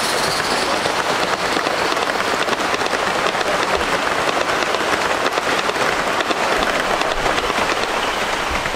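Rain pattering steadily on an overhead roof, a dense, even crackling hiss with no rhythm.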